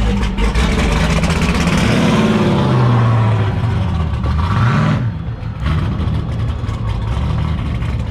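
Straight-piped engine running and revving: its pitch climbs twice, it eases off about five seconds in, then runs on steadily.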